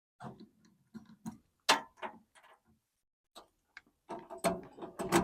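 Irregular clicks and knocks of things being handled, a dozen or so short hits with gaps between, busiest near the end.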